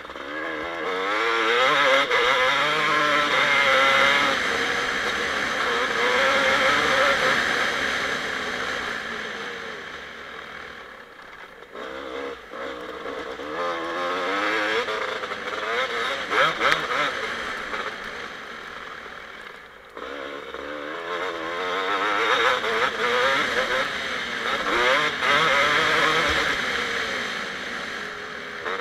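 2007 Kawasaki KX250 two-stroke motocross engine being ridden hard, its pitch climbing and falling with throttle and gear changes. It eases off twice when the throttle closes, then winds back up, with a few sharp clicks in between.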